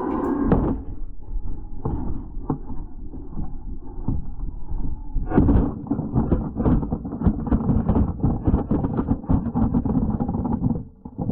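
Arrma Felony 6S RC car running over rough pavement: a dense rattling rumble of tyres and chassis with a faint motor whine, getting louder about halfway through.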